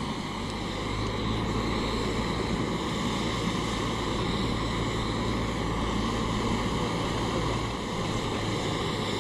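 Portable gas stove burner turned up, giving a steady rushing hiss with a low hum underneath; the hum drops away about eight seconds in.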